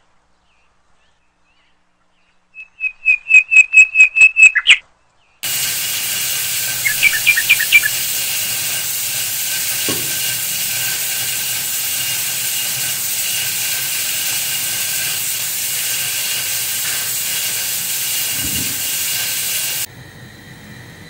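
A songbird calling in a quick run of about ten clear, repeated chirps, followed by a steady loud hiss with a few more chirps in it, which drops away to a faint background near the end.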